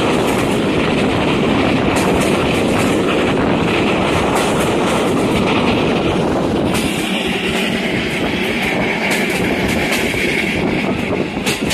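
Passenger coaches of a train running along the track, heard from an open carriage window: steady wheel-on-rail rumble with the clickety-clack of rail joints.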